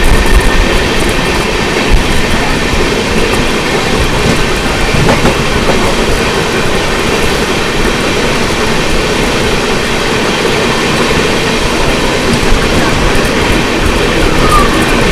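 Passenger train running along the track: a loud, steady rumble of wheels on rails.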